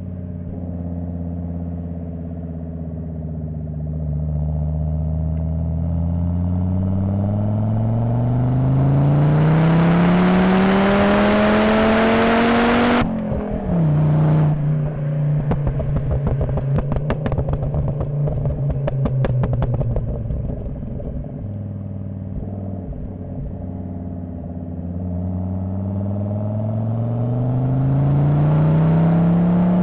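Volvo 850 T5's 2.3-litre turbocharged inline-five through a Magnaflow exhaust, heard from the rear bumper: the engine pulls hard, pitch rising steadily for about nine seconds, then the revs drop suddenly on lifting off. A rapid crackling follows for several seconds at a steady lower engine note, before it accelerates again and the revs drop near the end.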